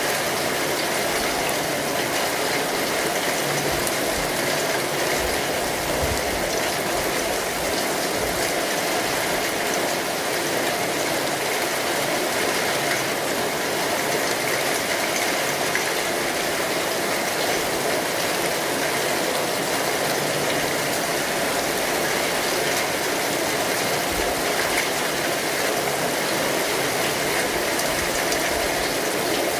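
Steady rain falling on an umbrella canopy, a dense, even spatter of drops with no let-up.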